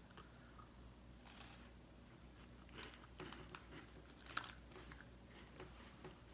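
Faint crunching as a thin, crisp chocolate-topped Petit Écolier biscuit is bitten into and chewed, a few scattered crisp cracks, the sharpest about four seconds in.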